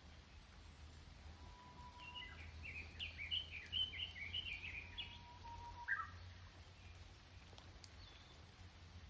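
A songbird singing one rapid phrase of short, high, jumping notes lasting about three seconds, followed by a single short call, over a low steady hum.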